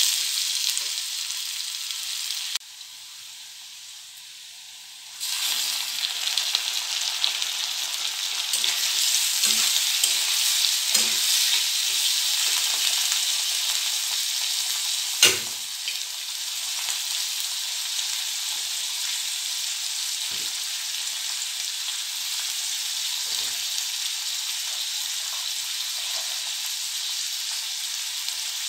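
Chopped onions and tomatoes sizzling in hot oil in a steel kadhai, with a metal spatula scraping the pan as it stirs. The sizzle drops away for a couple of seconds about three seconds in, and a single sharp knock, the loudest sound, comes about halfway through.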